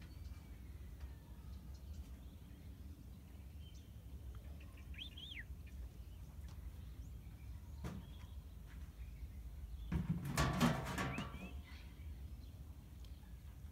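Faint outdoor ambience: a few high gliding bird chirps over a steady low rumble. About ten seconds in comes a louder, harsh burst lasting about a second and a half.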